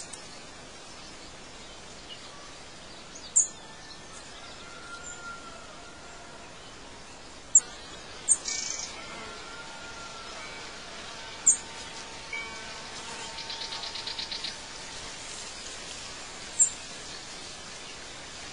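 Birdsong over a steady outdoor hiss: sharp high chirps every few seconds, a few short whistled notes, and a fast trill about thirteen seconds in.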